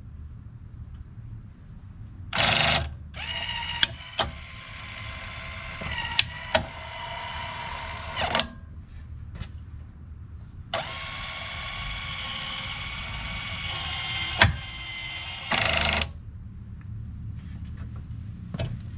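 Electric actuator motor on a John Deere 326D skid steer's Quick-Tach plate running twice, about five seconds each time, with a steady whine and a few sharp clicks as it drives the locking pins. A short loud burst of noise comes just before the first run and again at the end of the second.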